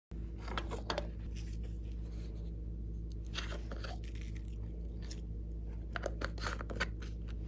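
Slime being squeezed and worked by hand, with sticky crackling and popping in clusters over a steady low hum.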